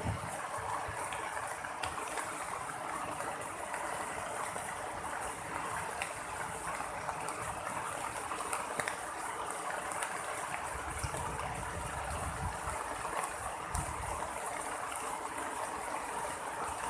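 Heavy tropical rain pouring steadily, with a low rumble of thunder swelling and fading about two-thirds of the way through.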